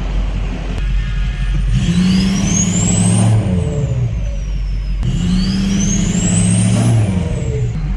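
Ford 6.0 Power Stroke diesel pickup revved hard twice to roll coal. Each rev brings a rising turbo whistle that climbs high, then falls away as the revs drop back.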